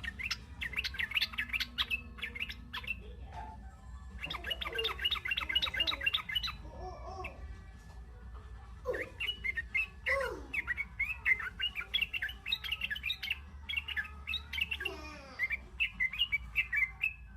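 Young sooty-headed bulbul chattering: rapid runs of high chirps in several bursts, with lower squawking notes between them.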